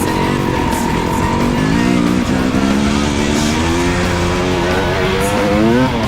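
Dirt bike engine revving up and down while riding, its pitch rising and falling repeatedly.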